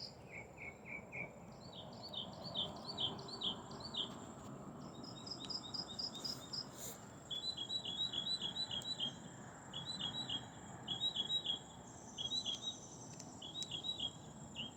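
Small birds chirping in quick runs of short, repeated high notes, with a steady high insect drone behind.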